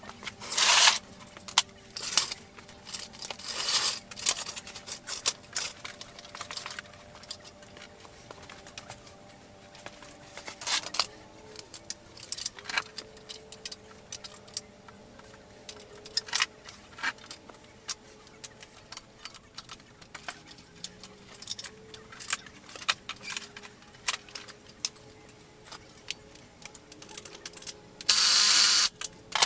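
Metal tools and scooter engine parts clinking and rattling in irregular bursts, over a faint steady hum. Near the end comes a louder rush of noise lasting about a second and a half.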